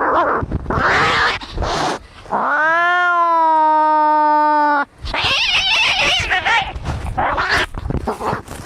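Angry domestic cats fighting: harsh, rough cries, then one long, steady yowl of about two and a half seconds that cuts off abruptly, followed by more harsh, wavering screeching.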